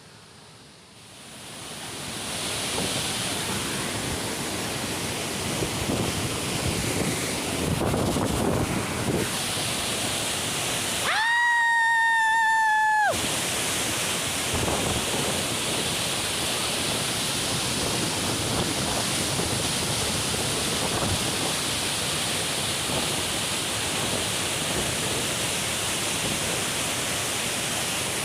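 Steady rushing of a waterfall, fading in over the first two seconds. About eleven seconds in, the water sound cuts out for about two seconds while a steady pitched tone with several overtones sounds, dipping slightly in pitch as it ends.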